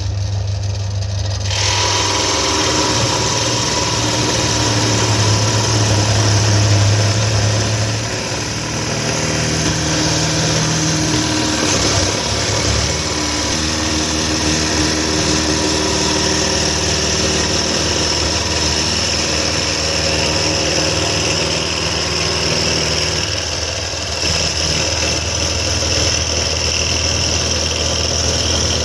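Bench pillar drill's electric motor running steadily with a low hum, its tone shifting several times as the bit is fed down into a piece of scrap wood.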